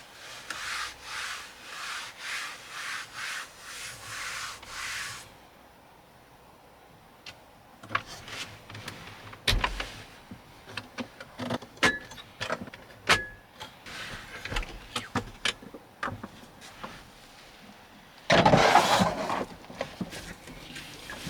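Rhythmic rubbing strokes, about two a second, for the first five seconds. Then, after a quiet pause, scattered clicks and knocks of objects being handled, and a loud rustling scrape about eighteen seconds in.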